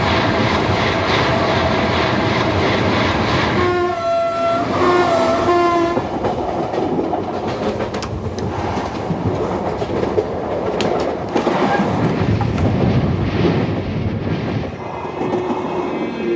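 A train running with a steady rolling rumble. Its horn sounds in three short blasts about four to six seconds in.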